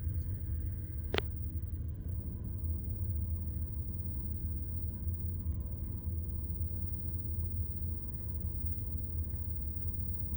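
Steady low rumble, with a single sharp click about a second in.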